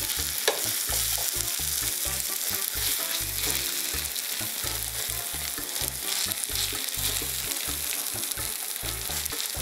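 A thin zucchini batter pancake sizzling steadily as it fries in vegetable oil in a frying pan, with a single sharp tap about half a second in.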